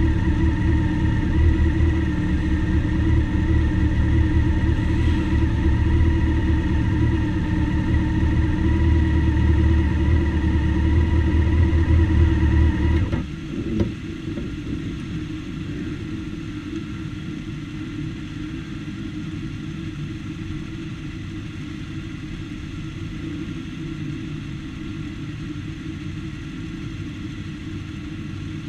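A motorcycle engine idling steadily close by, switched off about halfway through with a short knock just after. The quieter idle of many motorcycles around it carries on afterwards.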